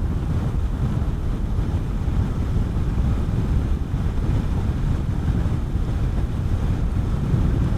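Steady wind noise buffeting the helmet microphone while riding a Honda CB400SS motorcycle at road speed, with the low rumble of the engine and road underneath.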